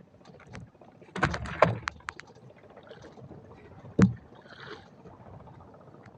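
Knocks and clatter of gear being handled in a small fishing boat: a rattle of several sharp knocks about a second in, then one hard thump about four seconds in.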